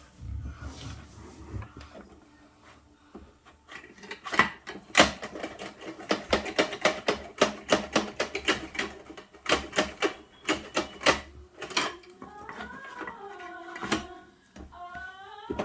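Plastic toy garbage truck parts clicking and rattling in quick irregular runs as they are worked by hand. Near the end come a few gliding, whine-like pitched sounds.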